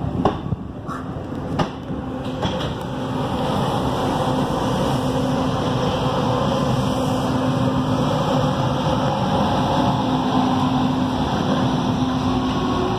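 Running noise of an Indian Railways express train heard from on board as it gathers speed: a steady rumble of wheels on rail with a low hum, growing fuller a few seconds in. A few sharp clicks come near the start.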